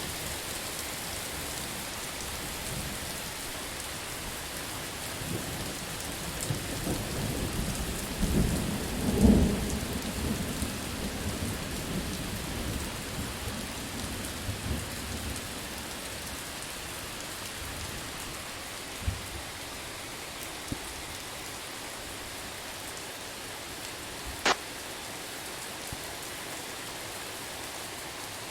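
Steady heavy rain falling, with a low rolling rumble of thunder that builds about five seconds in, peaks near nine seconds and dies away a few seconds later. A few sharp clicks cut through the rain in the second half.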